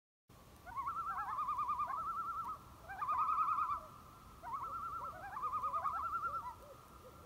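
Calls like a bird's: quickly wavering, quavering notes in four phrases of about a second each, with short upward slides, over a steady held tone. The sound cuts off abruptly.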